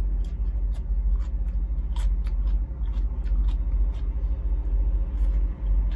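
Steady low rumble of an idling semi-truck heard inside the cab, with scattered small clicks and taps over it.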